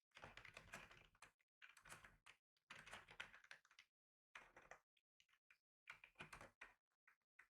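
Faint typing on a computer keyboard: runs of key clicks in short bursts, broken by brief pauses.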